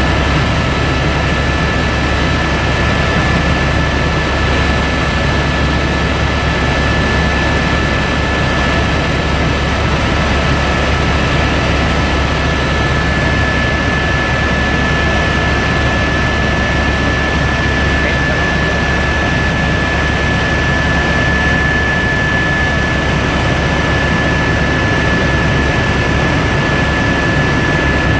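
Helicopter in flight heard from inside the cabin: a loud, steady drone of engine and rotor with a high steady whine on top.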